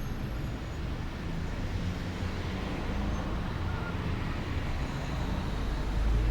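Steady outdoor background rumble with a soft hiss, swelling slightly near the end.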